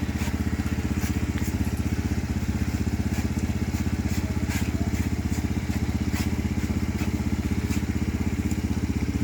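Small motorcycle engine idling steadily with a fast, even pulse.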